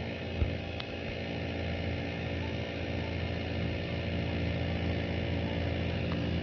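Inverter air conditioner outdoor unit running steadily, its compressor and fan giving a constant hum while R410A refrigerant is being charged into it. A short low thump about half a second in.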